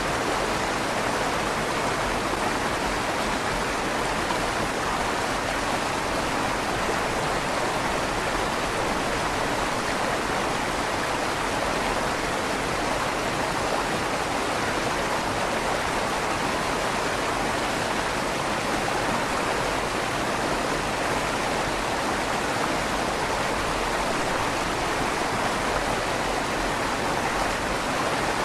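River water flowing steadily under a stone bridge, a constant even rush with a slight echo off the tunnel's stone walls.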